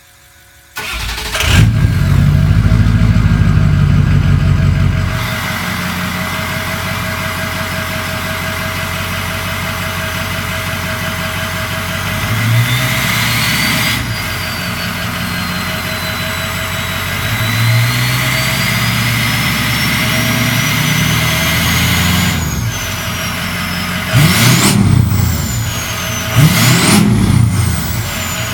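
A 2007 Ford 6.0 Powerstroke V8 turbo-diesel with a 5-inch straight-pipe exhaust starts about a second in and runs loud for a few seconds before settling to idle. Through the light revs, a high turbo whistle rises and falls. Near the end come two sharp throttle blips.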